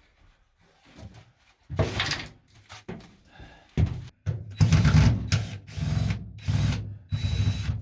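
Power drill-driver run in short bursts, working on the screws of a stuck tail light bulb holder: a brief run about two seconds in, then several longer loud runs in the second half.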